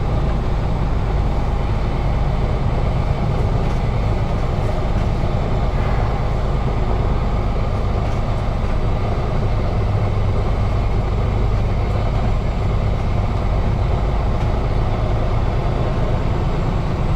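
Semi truck's diesel engine running steadily at low speed while the rig rolls slowly, a constant low rumble with no change in pitch.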